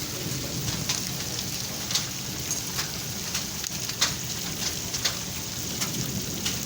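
Rain falling steadily, with single drops striking close by as irregular sharp ticks, the loudest about four seconds in.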